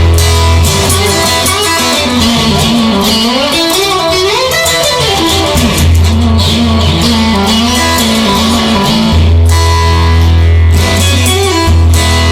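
Instrumental break in a blues song: a guitar plays a lead line with bending notes over steady low bass notes.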